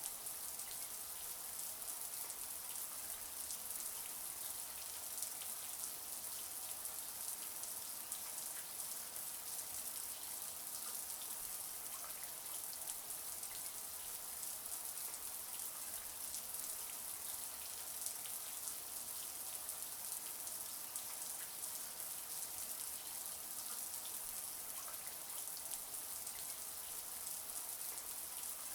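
Shower water running steadily: an even hiss of spray with fine pattering of drops.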